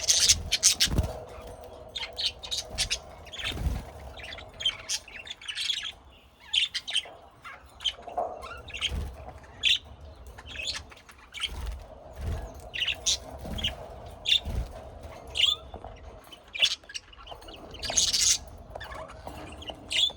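Birds chirping and calling, many short high chirps overlapping and coming thickest near the start and again near the end, with a few low thumps between them.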